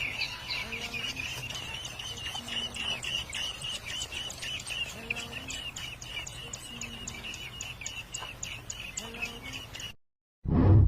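A small pet bird chirping and twittering in a fast, continuous run of short notes, which cuts off about ten seconds in; a brief loud sound follows at the very end.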